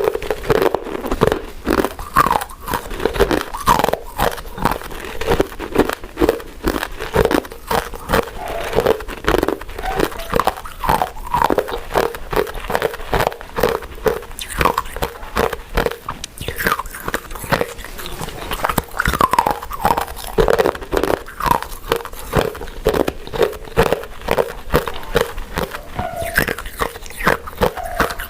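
Close-miked chewing and biting of soft, chewy glutinous rice desserts: a continuous run of quick wet clicks and mouth smacks.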